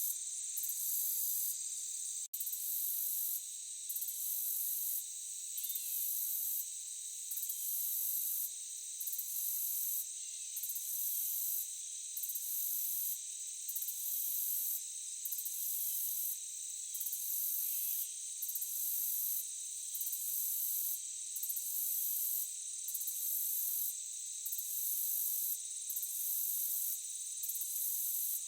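Night insect chorus of crickets: several steady high trills, with a still higher, shrill call pulsing on and off about every one and a half seconds. The sound cuts out for an instant about two seconds in.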